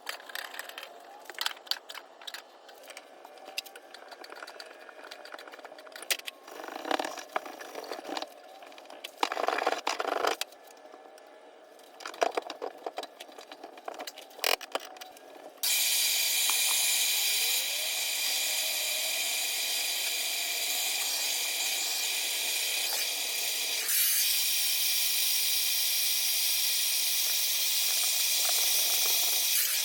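Clinks, knocks and rattles of tool work on plumbing pipes and fittings. About halfway through, a loud steady hiss starts suddenly and keeps going.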